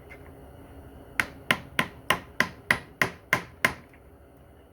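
Hammer tapping nine times at an even pace of about three strikes a second on a stuck part of a Corvair Powerglide transmission, driving loose a piece that has got pinched.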